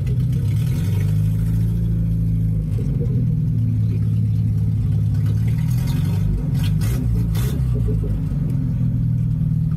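Datsun 620 pickup's four-cylinder engine running under way at low speed, heard from inside the cab: a steady low drone that rises and dips slightly with the throttle.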